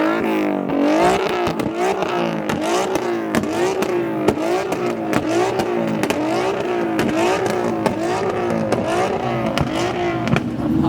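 A car engine revved over and over, its pitch rising and falling roughly every half-second to second, with sharp pops scattered through. Loud as hell.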